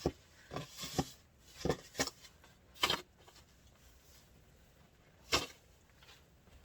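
Deep fresh snow crunching and scraping in short separate strokes: several in the first three seconds, then one more about five seconds in.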